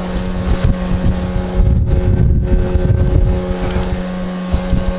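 Boat motor running steadily with an even hum, while wind buffets the microphone in heavy gusts.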